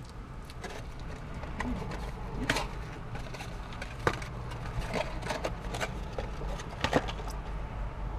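Crunching and chewing of a crispy fried-chicken sandwich, with scattered sharp crunches and clicks, the loudest about two and a half, four and seven seconds in, over a low steady hum.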